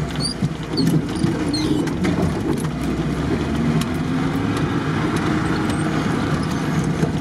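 VAZ-2101 Zhiguli's four-cylinder engine running as the car drives along a rough dirt track, heard from inside the cabin, its pitch slowly rising and falling. Scattered light rattles and clicks from the car's body and loose items come through over the engine.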